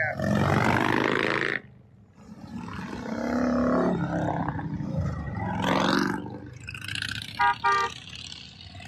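Motorcycles revving loudly as they ride past one after another, with two short horn beeps about seven and a half seconds in.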